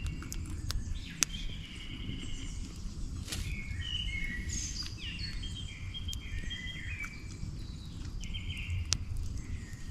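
Birds singing in woodland: a run of short chirping and whistled phrases, with a few scattered sharp clicks and a steady low rumble underneath.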